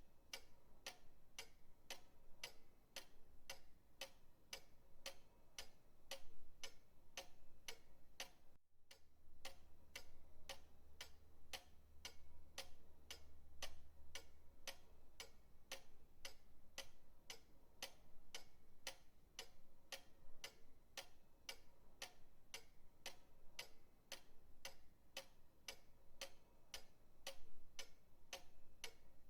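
Pendulum clock ticking steadily at about two ticks a second. There is a brief dropout about nine seconds in.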